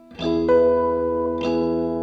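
Guitar chords strummed twice, about a second and a quarter apart, each chord ringing on.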